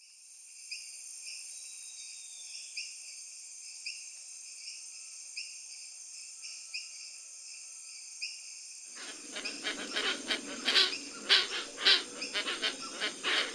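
Tropical forest ambience: a steady, high insect chorus with a regular pulse about every two-thirds of a second. About nine seconds in, louder harsh, raspy bird calls start up and repeat rapidly over it.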